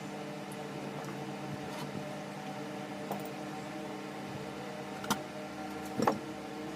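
Steady hum of an electric table fan, with two sharp clicks near the end, the second the louder.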